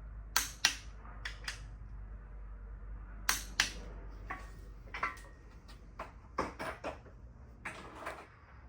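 Sharp metallic clicks and taps from tools and engine parts being handled during engine assembly, several coming in quick pairs, over a low steady hum.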